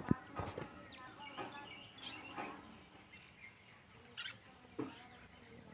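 Pet parrot making a string of short chirps and squawks, with a sharp tap or click just after the start.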